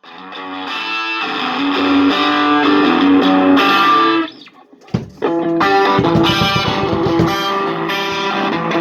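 Electric guitar played through a homemade 1-watt single-ended valve amplifier modelled on a Supro, with a little overdrive. Ringing chords swell in, there is a short break a little after four seconds, and then a rhythmic picked riff starts.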